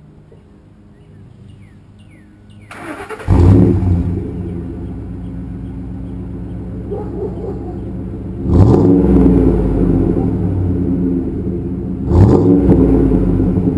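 2nd-gen Ford Expedition V8 breathing through a Magnaflow straight-through muffler with high-flow cats: it cranks and starts about three seconds in with a loud flare, settles to a steady idle, then is revved twice, once near the middle and once near the end.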